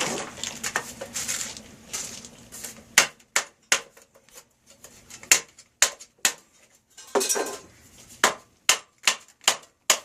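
Metal parts and tools being handled while working on a gas water heater: scraping for the first few seconds, then a run of sharp, irregular metallic clinks and taps, with a short scrape partway through.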